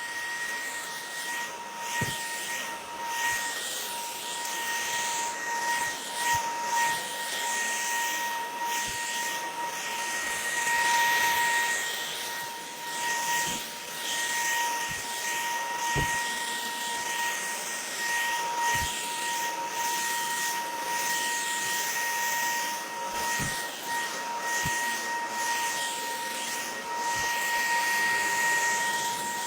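TMA 400W cordless vacuum cleaner running, with a steady high motor whine over a rushing hiss of air, and light knocks here and there. Its loudness swells and dips.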